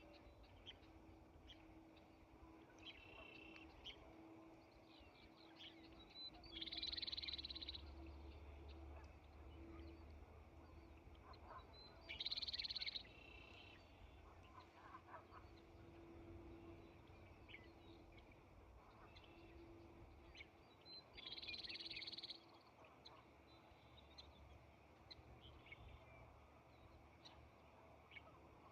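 Faint birdsong: three louder high calls about a second long each, with scattered short chirps between them.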